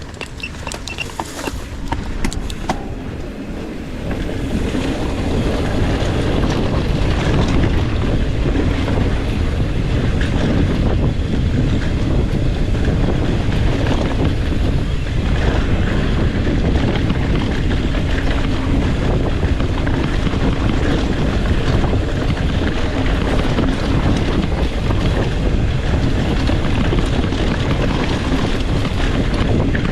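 Wind buffeting the camera microphone as a mountain bike descends a dirt trail at speed, mixed with the bike's rolling rumble over the ground. It grows louder about four seconds in as speed builds, then holds steady.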